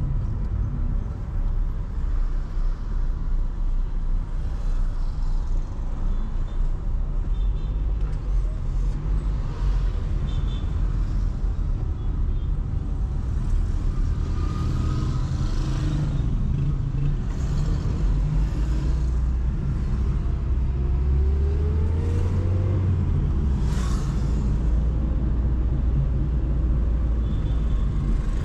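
Car driving through city traffic at night: a steady low rumble of engine and road noise. About twenty-one seconds in, an engine note rises briefly as a vehicle speeds up, and a short hiss follows.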